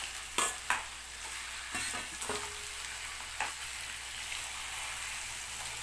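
Marinated chicken pieces sizzling in hot oil in a kadai, stirred with a spatula that knocks against the pan several times in the first few seconds.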